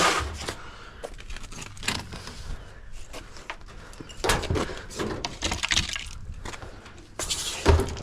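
Clunks, rattles and scraping of a whole dishwasher being shifted and lifted onto a scale to be weighed, with a heavier thump near the end.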